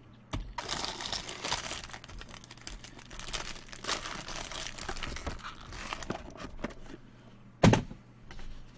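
Plastic trading-card packaging crinkling and being torn open, a dense, continuous rustle. A single sharp knock, the loudest sound, comes near the end.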